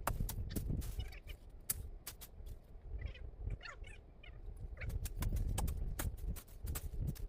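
Irregular sharp knocks and clicks, several a second, over a low rumble, with a few brief chirps about three seconds in.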